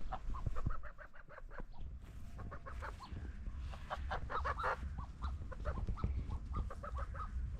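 Domestic ducks giving many short, soft quacks in quick runs, busiest about halfway through.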